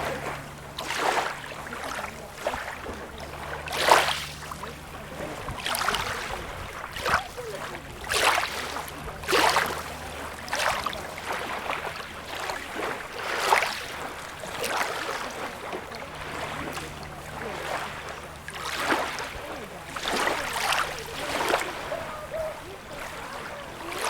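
Small sea waves lapping and washing on a beach, an irregular splash or surge every second or two, with a faint low hum underneath.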